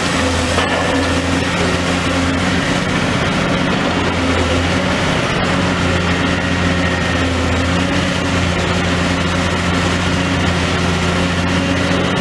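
Demolition excavator's diesel engine running steadily at a constant speed, a low even hum with a few faint clicks.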